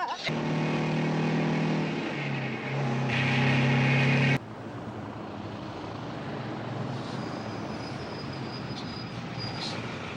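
A big rig's engine running loud with a steady pitch that steps down once, about two seconds in, as on a gear change. It cuts off abruptly partway through, leaving quieter, steady road noise.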